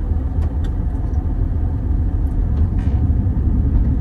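Motorhome on the move: a steady low rumble of engine and road noise, with a few faint ticks.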